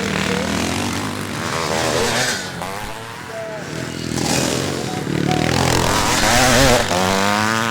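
Classic motocross motorcycles racing past, several engines revving up and down through the gears as they pass one after another.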